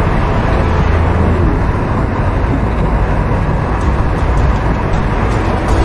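Steady rumble and rush of a passenger train running at speed, heard from on board.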